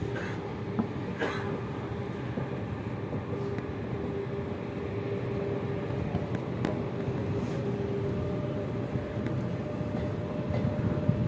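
Passenger train pulling out of a station: a steady rumble of the moving train with a held tone that steps up in pitch about two-thirds of the way through, and a few sharp clicks from the running gear.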